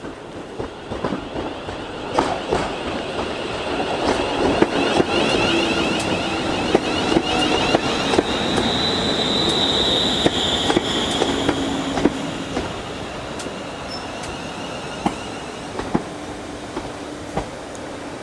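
A train running along the track, growing louder to a peak near the middle and then easing off, with a high wheel squeal for several seconds and scattered clicks of the wheels.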